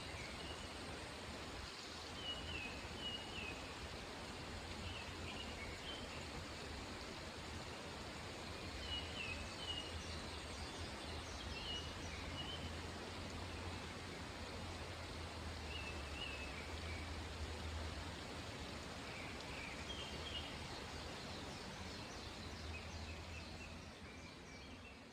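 A bird repeats short high chirping phrases every second or two over a steady rush of flowing water, with a low rumble underneath. The sound begins to fade out near the end.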